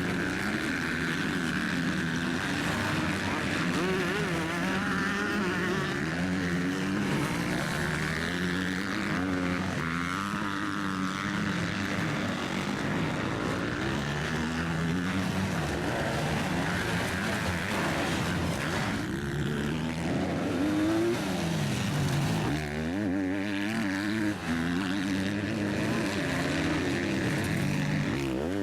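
Several motocross bike engines racing on a dirt track, revving up and down through the gears as they accelerate and back off, overlapping throughout.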